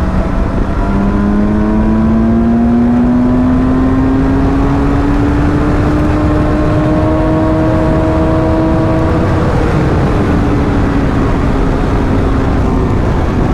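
Motorcycle engine accelerating hard at high speed, its pitch rising steadily for about nine seconds, then easing off slightly, over heavy wind rush.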